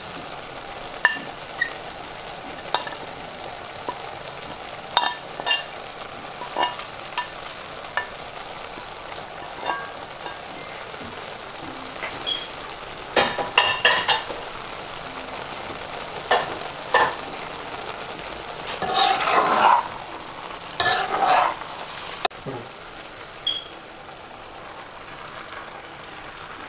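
Beef mince and vegetables sizzling steadily in a pot, with irregular sharp clinks of a utensil against a plate and the pot as ingredients are scraped in, and a few longer scraping, rustling spells in the second half.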